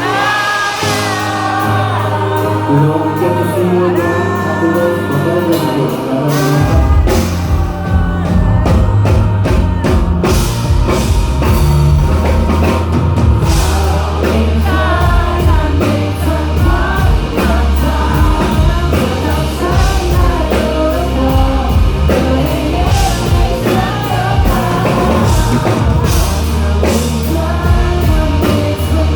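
Live rock band playing a song with singing, drums and bass. The bass and drums come in heavier about six and a half seconds in.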